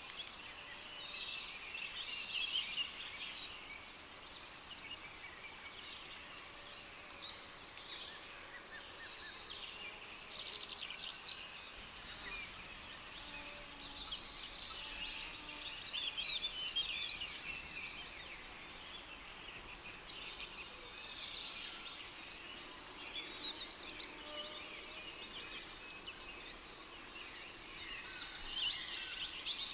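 Rainforest ambience: a cricket chirping in a steady high-pitched rhythm, about three chirps a second, pausing briefly twice, while various birds call and twitter.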